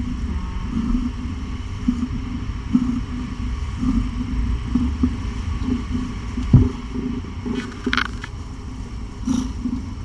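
Domestic cat purring steadily close to the microphone: a low rumble that pulses with each breath. A single knock comes about six and a half seconds in, and short rustles near the end.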